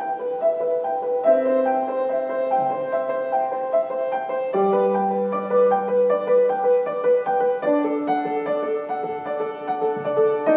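Piano playing a song's introduction: a steady run of short repeated notes over low bass notes that change every few seconds.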